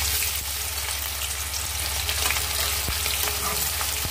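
Soya chaap frying in hot oil in a kadhai: a steady, dense sizzle, with a single sharp click about three seconds in and a metal ladle stirring the pieces near the end.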